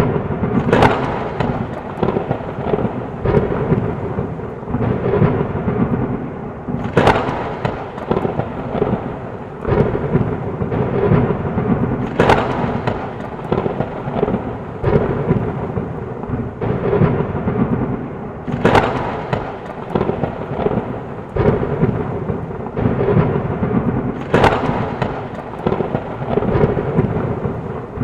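Heavy rain with continuous rolling thunder, and five sharp thunder cracks about every six seconds.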